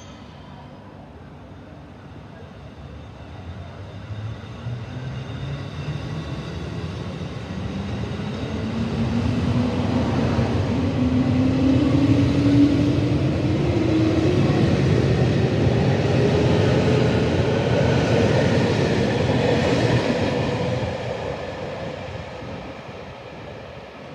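JR Hokkaido electric commuter train pulling out of the station and accelerating away. Its motor whine rises steadily in pitch as it gathers speed, loudest as the cars pass close by, then fades as the train leaves.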